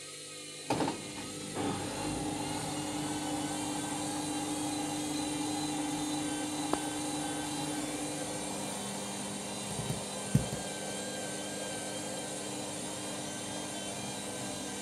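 Candy Grand'O Vita washing machine running its pre-wash, its motor starting with a few knocks about a second in and then running with a steady whine. A single knock comes about ten seconds in.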